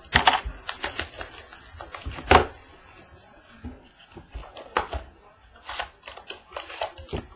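Cardboard trading-card mini box and its cards being handled as it is opened: irregular clicks, taps and rustles, with one louder knock about two seconds in.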